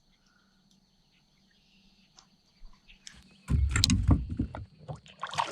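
A run of low thumps, knocks and rubbing against a kayak, starting about three and a half seconds in.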